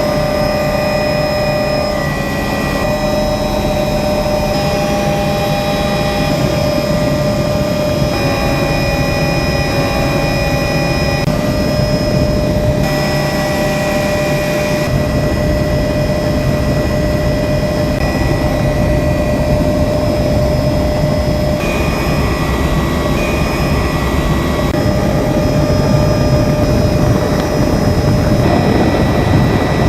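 Helicopter turbine engine and rotor running steadily in flight, heard from aboard the aircraft as a loud, even noise with several steady whining tones above it.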